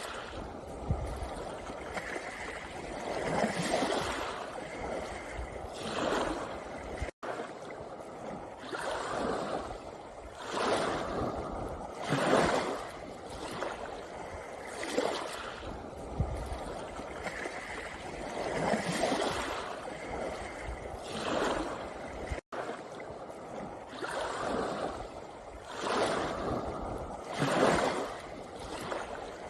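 Small sea waves washing onto a pebble beach, a surge of water every two to three seconds. The sound cuts out for an instant twice.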